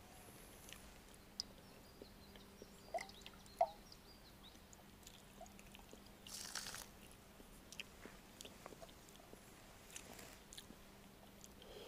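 A person eating a snack: faint chewing and small crunching clicks, with two sharper clicks a little after three seconds in and a short rustle past the middle.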